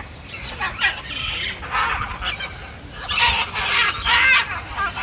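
Birds calling loudly in a bird park, a string of rough calls that grow loudest in the second half.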